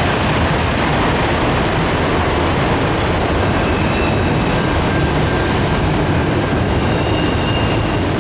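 Cars of a long CSX freight train, manifest cars and empty autoracks, rolling past: a loud, steady noise of wheels on rail, with faint high squeals from the wheels in the second half.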